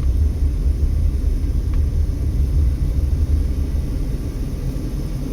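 Car road and engine noise heard from inside the cabin: a steady low rumble that eases a little about four seconds in.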